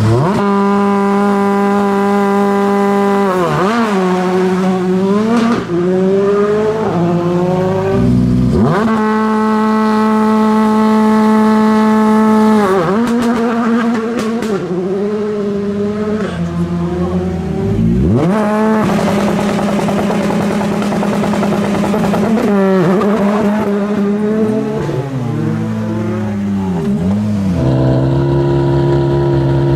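Rally car engines at a stage start, each held at a steady high rev for a few seconds and then dropping and climbing in pitch as the car pulls away through the gears. This happens three times.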